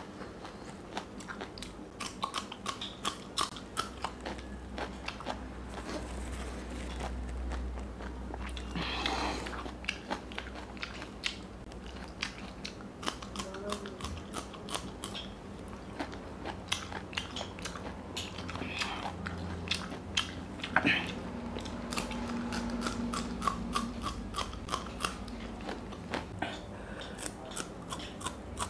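A person biting and chewing raw green chillies up close to a clip-on microphone: a run of crisp, wet crunches, with a couple of longer hissing sounds about a third and two-thirds of the way in.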